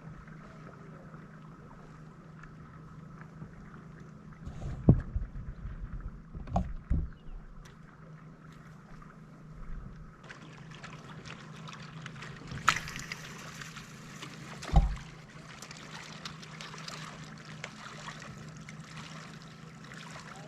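A kayak on the water: several dull knocks, three close together about five to seven seconds in and another about fifteen seconds in, over a faint steady hum, with a light hiss coming in about halfway.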